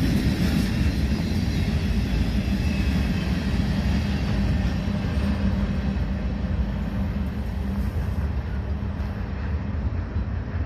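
Flatcars of a continuous welded rail train rolling along the track, a steady rumble of wheels on rail that eases off slightly toward the end.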